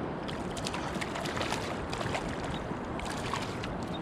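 Water lapping and splashing against a kayak hull, a run of small sharp splashes and ticks over a steady wash of water and wind.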